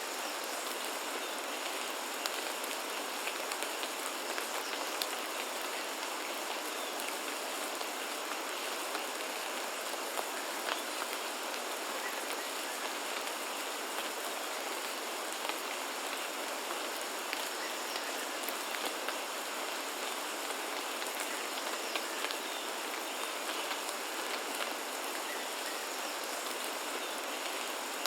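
Steady rainfall, an even hiss of rain with many small, scattered drop ticks throughout.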